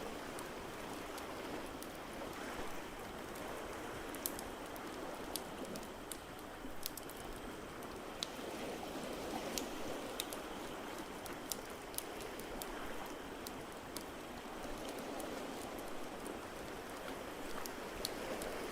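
Wood fire crackling, with sharp, irregular pops and snaps, over a steady wash of ocean surf that slowly swells and ebbs.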